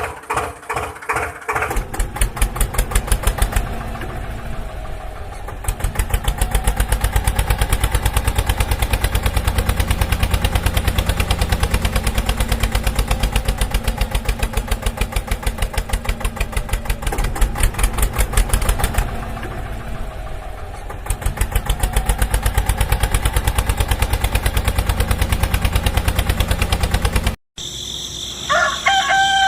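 Small engine of a DIY mini tractor running with a rapid, even popping beat that eases off twice for a second or two and then picks up again. It stops abruptly near the end, and a rooster crows.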